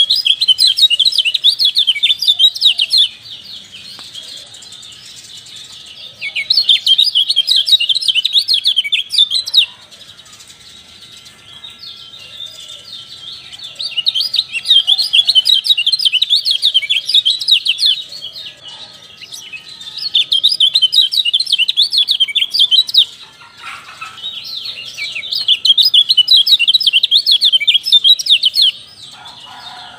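Kecial (white-eye) song used as lure audio: bursts of rapid, high chirping, each a few seconds long, five times with short pauses between.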